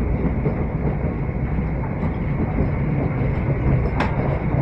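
Train running at speed, heard from inside the carriage: a steady rumble and rush from the wheels and running gear, with a single sharp click about four seconds in.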